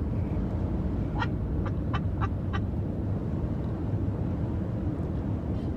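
Steady road and engine rumble inside a moving car's cabin at highway speed. About a second in comes a quick run of five short, high chirps.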